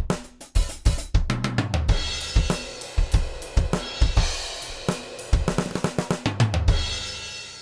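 Sampled acoustic drum kit from Roland's DrumStudio Acoustic One software, triggered from pads, playing kick, snare, hi-hat and cymbal hits that build into a short beat. The last hit lands near the end, and a cymbal rings out and fades after it.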